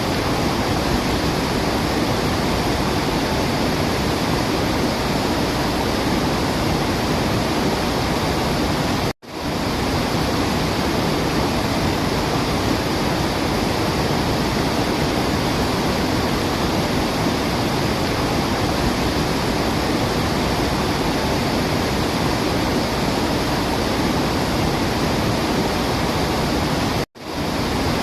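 Waterfall with a steady, dense rush of water and no birdsong standing out. The sound cuts out for a split second twice, about nine seconds in and near the end.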